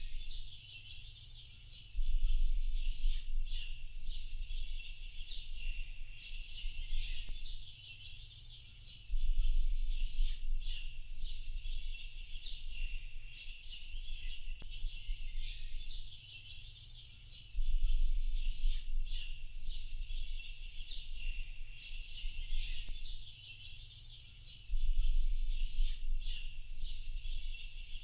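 A dense chorus of many small birds chirping and twittering without pause, high-pitched. Beneath it, a deep low rumble cuts in suddenly about every seven seconds and dies away again, louder than the birds.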